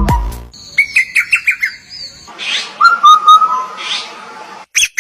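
Songbird calls from a bird-song training (masteran) recording: rapid high chirps and short whistled notes, two harsh raspy calls, and sharp loud chirps near the end.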